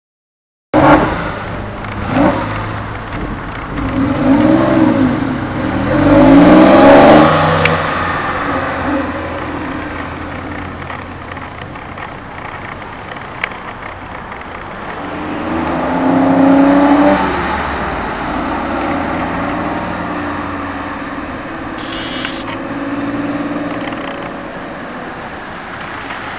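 Porsche 911 Carrera S's flat-six engine revving in rising and falling sweeps, loudest a few seconds in, then running as the car pulls away, with a second swell about two-thirds of the way through as it accelerates past.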